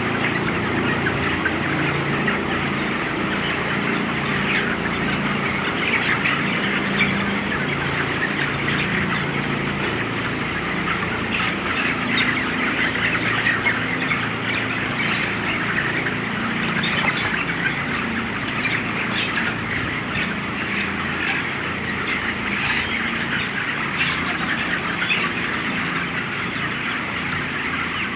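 A large flock of 24-day-old broiler chickens cheeping and clucking continuously, many birds at once, over the steady hum of the tunnel ventilation fans.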